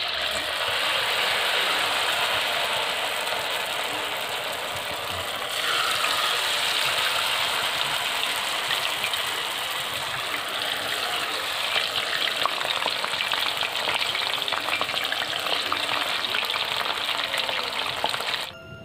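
Battered mushroom pieces deep-frying in hot oil in a small wok: a loud, dense crackling sizzle. It gets louder about five and a half seconds in, as more battered pieces go into the oil.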